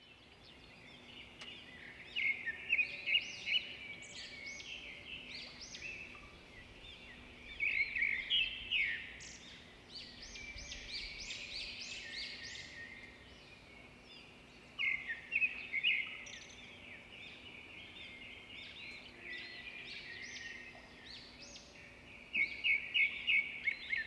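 Birds chirping and singing: quick high chirps and trills, with louder clusters of rapid chirps every few seconds, over a faint steady low hum.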